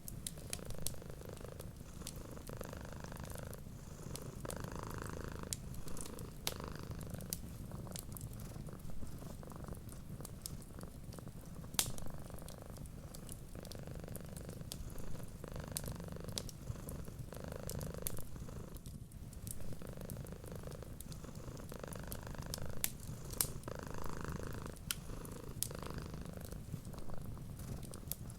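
A cat purring steadily and continuously, with the sharp scattered pops and crackles of a wood fire over it.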